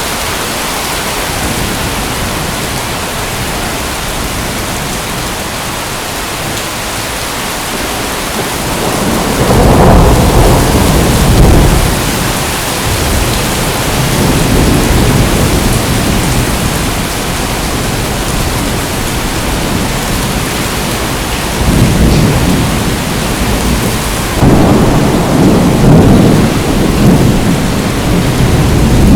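Steady heavy rainfall with rolling thunder. The thunder rumbles in about a third of the way through the rain, and twice more near the end.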